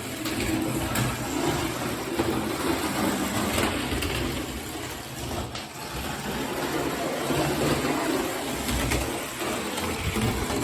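Lionel toy trolley running on three-rail O-27 track, its small electric motor giving a steady hum with light clicking from the wheels on the rails. It is moving slowly because the motor is still cold and warming up.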